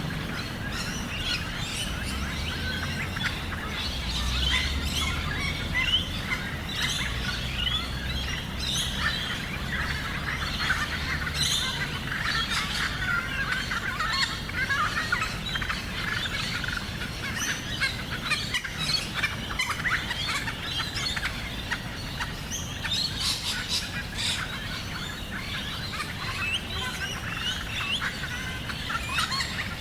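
A dense chorus of many songbirds chirping and calling over one another. A low rumble runs underneath for the first ten seconds or so.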